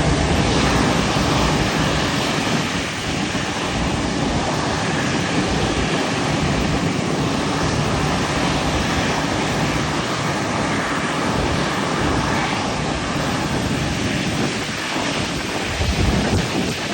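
Rolls-Royce Trent 800 turbofans of a Boeing 777-200 running at taxi power: a steady rushing roar with a faint steady whine, mixed with wind buffeting the microphone.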